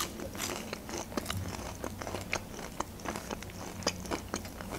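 Close-miked chewing of a crispy battered onion ring: a steady run of small crunches and crackles from the mouth.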